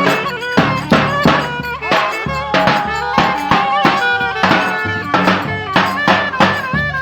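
Live Turkish folk dance music: a wind instrument plays a wavering, ornamented melody over a steady beat of drum strokes about three a second.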